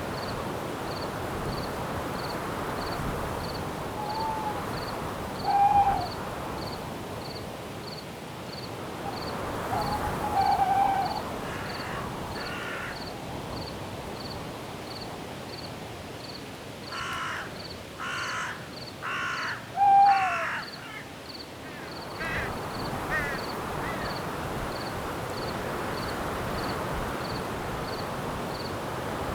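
Night forest ambience: a steady wind-like hiss with an insect chirping at an even pace throughout, broken by harsh bird calls. There are single calls about 4, 6 and 10 seconds in, then a run of four in quick succession from about 17 seconds, and a few softer ones a little later.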